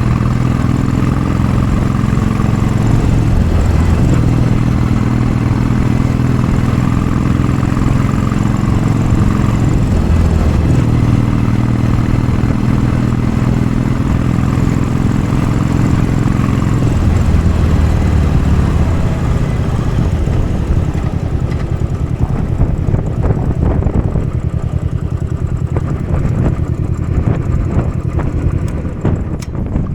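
Royal Enfield Bullet 500 single-cylinder engine with a baffled Mass Moto Bottiglia exhaust pulling under load on a steep climb, its pitch shifting a few times. After about twenty seconds the engine note eases off and turns thinner and uneven.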